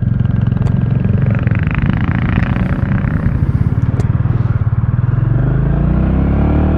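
Royal Enfield Classic 350's single-cylinder engine running under way, with a steady rapid pulse. Its pitch rises over the last second or so as the bike accelerates.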